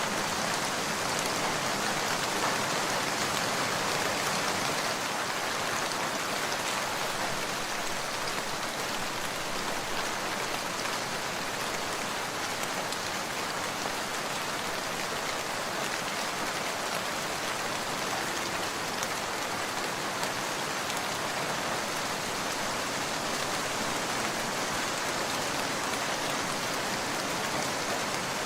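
Steady rain falling, an even hiss of drops with no breaks, a little louder for the first few seconds.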